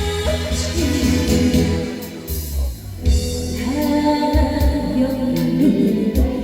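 Live instrumental break in a slow Korean trot-blues song: a keyboard backing with a steady drum beat under a gliding saxophone lead melody, with a short pause about two and a half seconds in.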